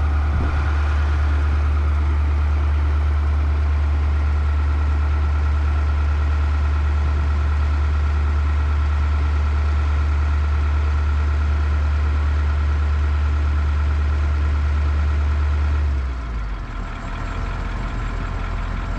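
Heavy diesel engine running steadily with a deep, even hum; the low hum drops away about sixteen seconds in.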